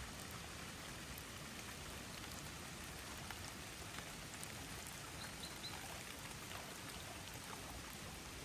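Light rain falling steadily, with many separate drops heard as small ticks. Three short high chirps come about five seconds in.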